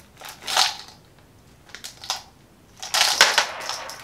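Small steel balls clicking and rattling as they are poured from a plastic bag onto the magnet base of a magnetic desk sculpture, snapping onto it. The clicking comes in several short bursts, and the biggest comes about three seconds in.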